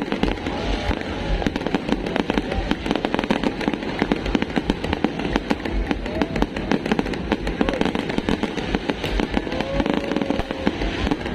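A fireworks display going off in a rapid, unbroken barrage of bangs and crackles, with deep booms underneath.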